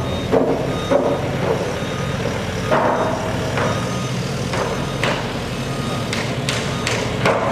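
Heavy construction machinery running with a steady engine drone. A reversing alarm beeps repeatedly in the first second or so, and several sharp knocks come in the second half.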